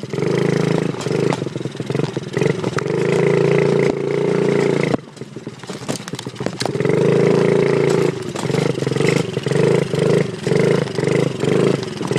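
A 2003 Honda four-stroke dirt bike engine being ridden, revving up and easing off. The throttle closes about five seconds in, opens again a second or so later, and near the end is blipped on and off in quick bursts.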